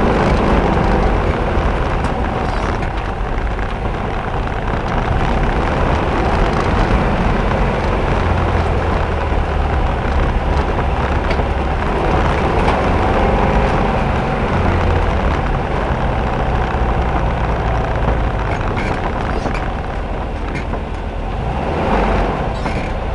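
Air-cooled VW engine of a Baja Bug running, heard from inside the car as it drives a dirt trail, its pitch rising and falling with the throttle.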